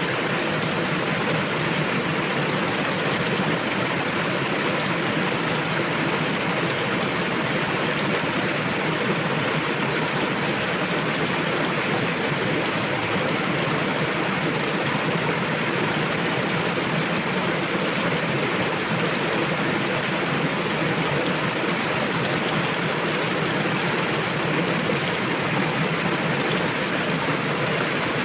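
Forest river rushing over rocks: a steady, even rush of flowing water.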